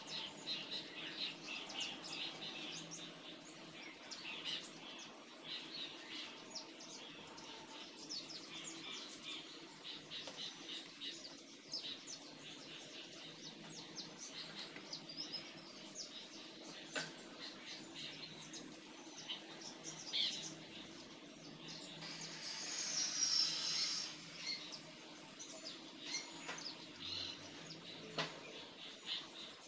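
Small birds chirping with many short, high calls throughout, over a faint steady low hum. About two-thirds of the way through, a louder hiss or rustle lasts about two seconds.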